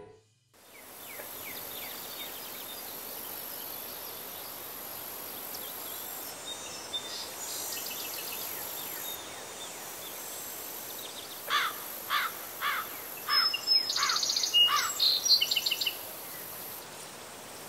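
Outdoor ambience: a steady hiss of background noise with faint chirps, then a bird calling a run of about seven quick falling notes, mixed with higher twittering, for some four seconds about two-thirds of the way in.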